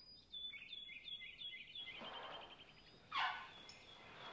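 Wild birds chirping in quick repeated trills, with a short louder rush of noise about three seconds in.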